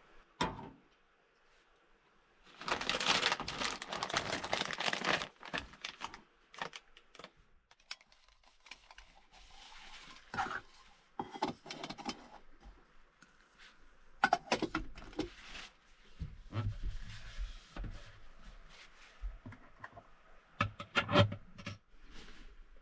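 Small objects being handled at close range: a couple of seconds of rustling, then scattered clicks and knocks.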